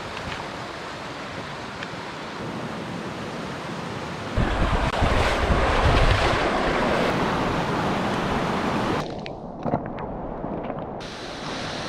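Heavy rain falling, a steady rushing hiss, with wind buffeting the microphone and adding a loud low rumble for several seconds in the middle.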